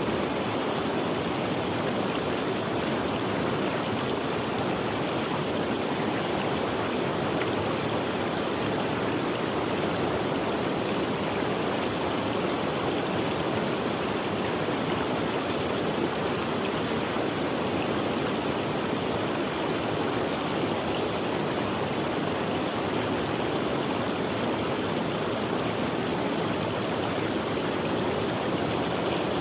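Running stream water, a steady unbroken rush and babble.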